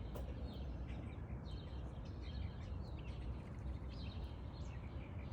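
Several songbirds chirping and calling in short notes, over a steady low background rumble.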